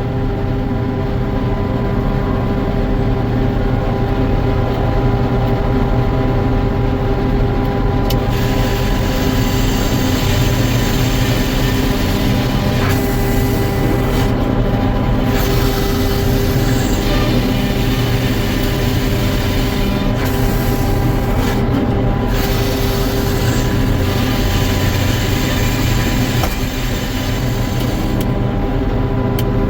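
Sawmill machinery running steadily as it saws eastern white pine logs, a constant hum with a coarse rushing noise that grows fuller about eight seconds in.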